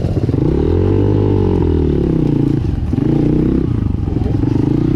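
Dirt bike engine running under the rider, the revs rising and falling twice as the throttle is worked.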